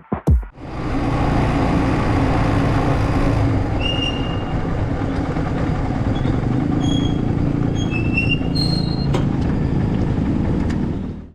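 A motorbike on the move, its engine running under steady wind and road noise. A few short high tones sound over it in the middle.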